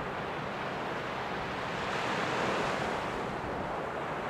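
Steady rushing noise, swelling a little about two seconds in and then easing.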